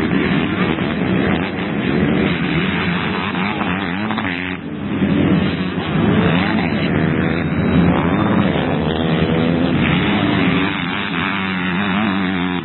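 Several motocross bikes racing, their engines overlapping and rising and falling in pitch as the riders work the throttle, with a brief lull a little over four seconds in.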